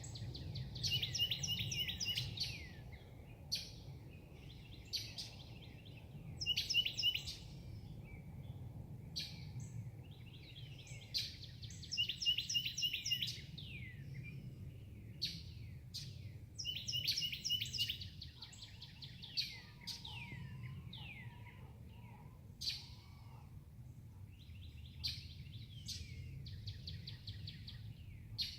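Morning birdsong: a songbird repeats a phrase of falling whistled notes ending in a fast trill, each about two seconds long and coming roughly every five seconds, with short single chirps between. A low steady hum runs beneath.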